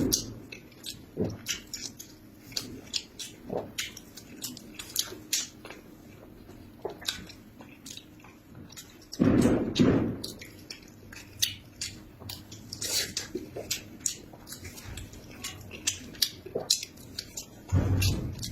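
A person chewing and eating food: a run of wet clicks and smacks, with a louder burst of eating noise about halfway through and another near the end.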